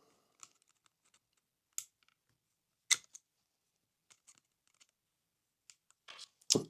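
Small plastic clicks and taps as the motor bogie of a Lima OO gauge model train is unclipped and worked out of its chassis, with two sharper clicks about two and three seconds in.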